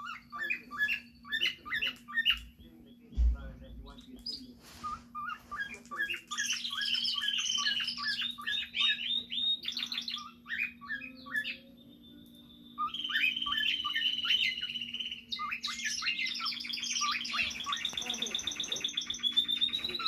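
Young cockatiel's early whistling: several bouts of fast, short, falling chirps, with some longer held notes in between. A steady low hum runs underneath, and a single dull knock comes about three seconds in.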